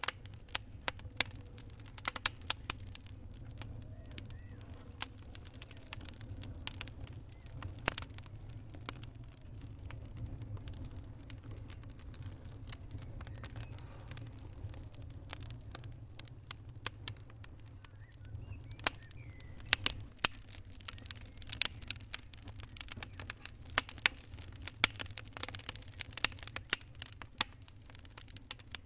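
Fire crackling, with irregular sharp pops and snaps over a steady low rumble. The pops come thickest about two seconds in and again from about twenty seconds in.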